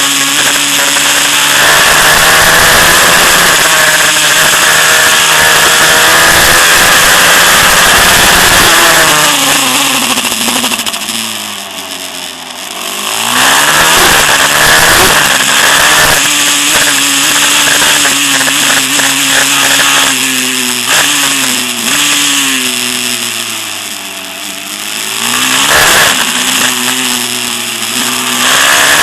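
190cc Daytona-engined Pitster Pro LXR pit bike, its single-cylinder four-stroke engine revving hard under load. Twice, about ten and twenty-two seconds in, the pitch falls and the sound drops in level as the throttle is rolled off, then climbs again as the bike accelerates.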